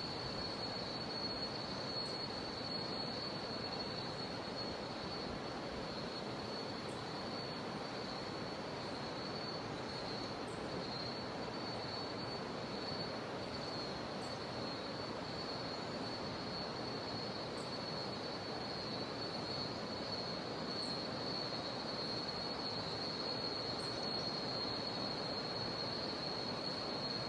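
Steady rush of a jungle river's flowing water, with a continuous high-pitched drone of cicadas running over it.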